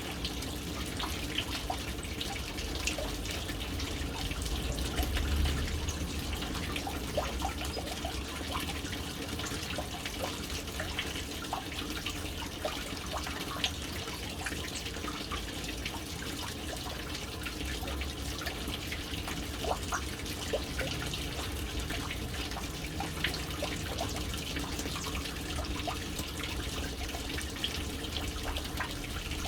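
Water running steadily into a household water tank from its float-valve inlet, splashing on the water surface with many small drips and plinks and a low rumble underneath.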